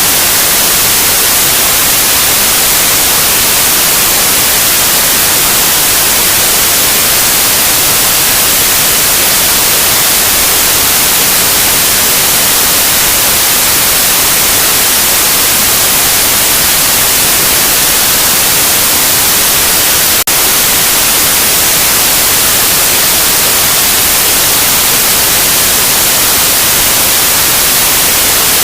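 Loud, steady white noise, an even hiss with no tones or rhythm. A split-second glitch breaks it about two-thirds of the way through.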